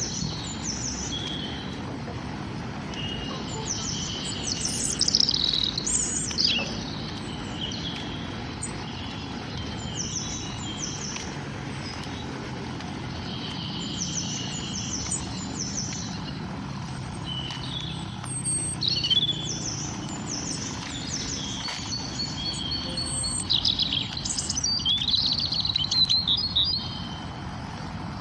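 Several songbirds chirping and singing, with short high chirps and quick trills coming and going and busiest near the start and again near the end, over a steady low background rumble.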